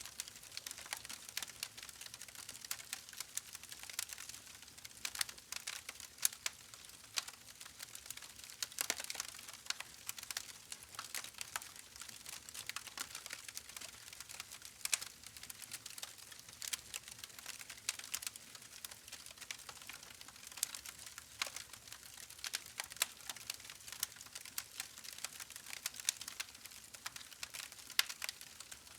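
Campfire crackling: a steady run of irregular small pops and snaps of burning wood over a faint hiss, with a few sharper snaps standing out.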